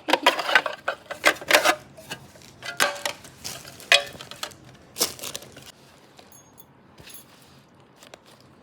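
Clattering and rustling of small hard objects being handled and set down. A string of sharp clacks comes over the first five seconds or so, then only faint, sparse ticks.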